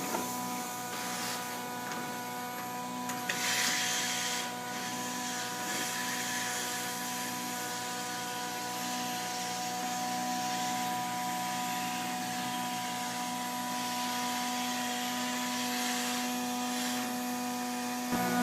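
A vacuum used for dryer vent cleaning runs steadily with a motor hum and a rushing, rubbing noise that swells for a second or so about three seconds in.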